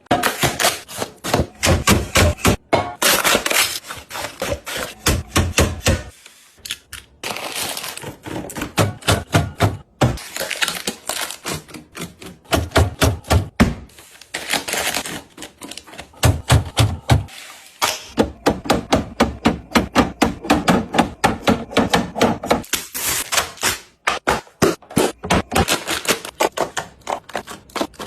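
Containers and packaging being handled and set down while restocking a refrigerator: a busy run of quick clicks, clacks and knocks, with a few short pauses and some duller thuds.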